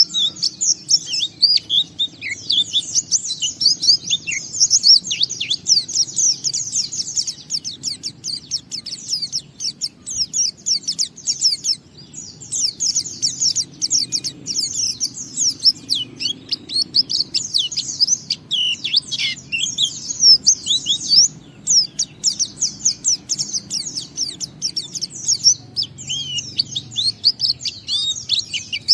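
A pleci (Zosterops white-eye) singing in the long, unbroken ngalas style: a fast, dense run of high twittering chirps, pausing only briefly twice.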